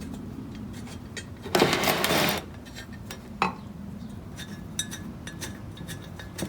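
Small metal fan parts being unscrewed and handled, giving scattered light clicks and ticks, with a louder scrape lasting just under a second about a second and a half in and a sharp click a couple of seconds later.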